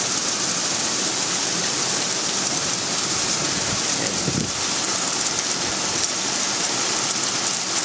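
Heavy thunderstorm downpour, rain mixed with small hailstones, a steady dense hiss.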